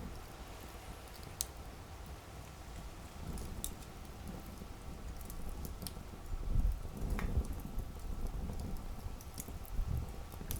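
Campfire burning: a low steady rumble of flames with a handful of sharp, scattered crackles and pops from the wood.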